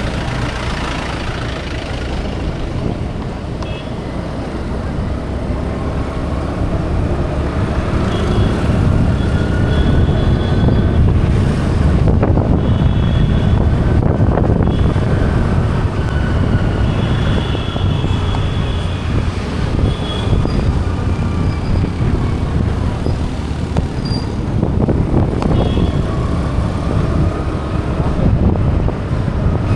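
Road traffic noise: a dense, steady rumble of passing vehicles, with short horn toots at intervals.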